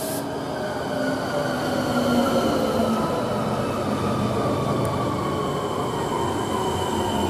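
Electric multiple unit pulling into a station platform and passing close by, its motor whine falling slowly in pitch as it brakes, over a steady rumble of wheels on rail that grows louder after about a second.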